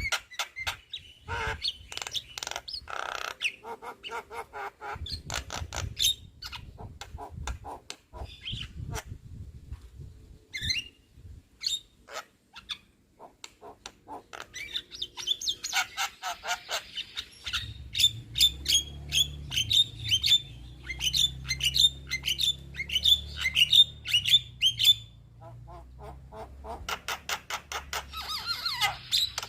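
Young Javan myna chattering and squawking: fast runs of harsh, clicking notes broken by short pauses, busiest in the second half. A low rumble lies under the calls in the second half.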